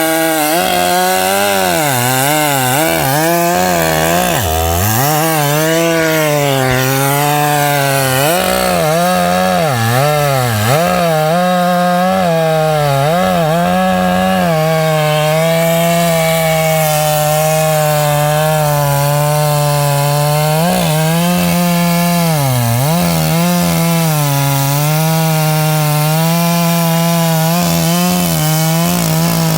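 Chainsaw running and cutting into wood, its engine pitch dropping and rising again and again under load through the first half, then holding mostly steady at high revs with two brief dips later on.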